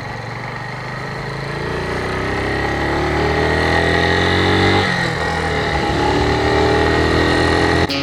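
Motorcycle engine accelerating: the revs rise, drop suddenly with a gear change about five seconds in, then rise again. A steady whistle runs over it.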